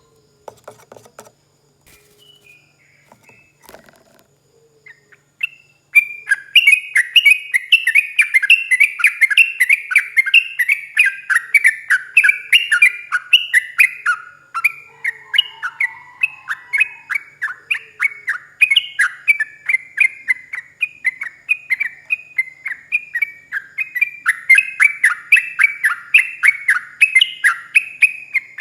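Trucukan (yellow-vented bulbul) singing a long rapid song: a fast run of short falling whistled notes, several a second, that starts loudly about six seconds in and goes on without a break.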